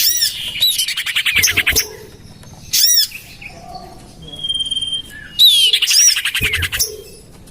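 Common iora (cipoh/sirtu) calls played as a bird lure: sharp arched chirps and two bursts of fast chattering trills, with a thin held whistle in between.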